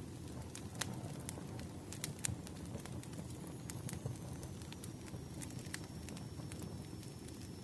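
Campfire burning: a steady low rumble of flames with irregular sharp crackles and pops from the wood.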